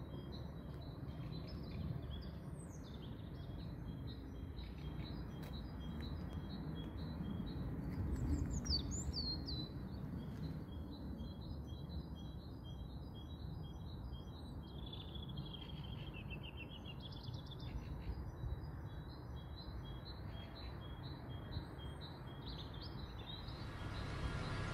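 Small birds chirping: a steady run of short repeated high chirps, with a few longer gliding calls now and then, over a low steady background noise.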